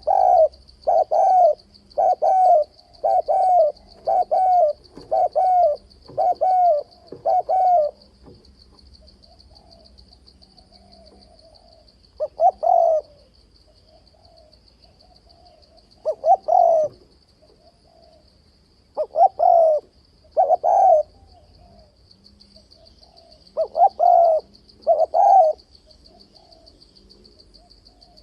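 Male spotted dove cooing: a quick run of short coos for about the first eight seconds, then single and paired coos a few seconds apart. This is the challenge calling used to provoke rival males. A faint steady high trill runs underneath.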